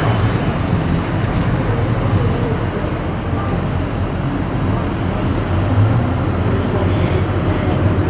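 Skid steer loader's diesel engine running steadily.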